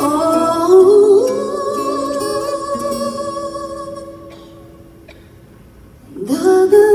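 Ballad sung over acoustic guitar: the voice holds one long note that fades away about four seconds in, there is a short hush, and then the voice rises back in near the end.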